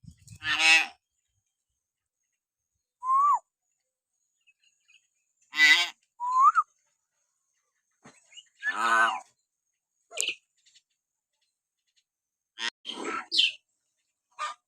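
Hill myna calling in separate outbursts a few seconds apart: harsh, raspy calls mixed with short clear whistles, one of them rising in pitch.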